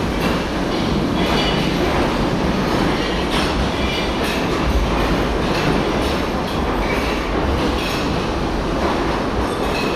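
A driverless 2-foot-gauge Post Office Railway (Mail Rail) electric train pulls away into the tunnel, its wheels rumbling and clicking over the points, with brief high wheel squeals now and then.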